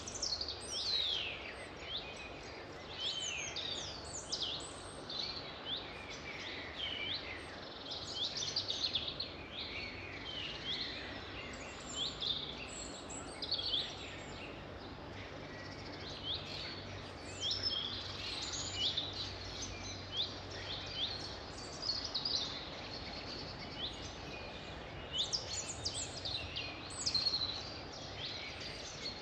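A chorus of songbirds singing, with many quick, high chirps and falling whistles overlapping without a break, over a steady background hiss.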